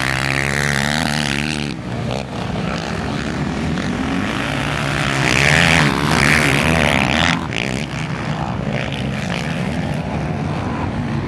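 Racing quad (ATV) engines revving, their pitch rising and falling as the machines accelerate and pass; loudest about five to seven seconds in.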